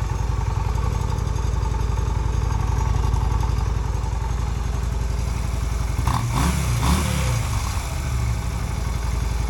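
Yamaha V Star 250's air-cooled V-twin idling steadily, then revving up and back down briefly twice about six and seven seconds in.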